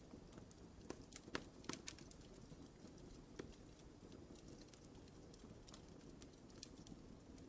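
Wood fire crackling quietly: scattered sharp pops and snaps over a soft steady rumble, with a cluster of pops in the first two seconds and fewer after.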